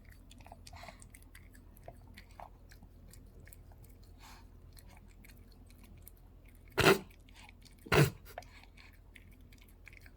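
Close chewing of food: soft, wet clicks and small crunches. Two loud, short sharp sounds come about a second apart near the end.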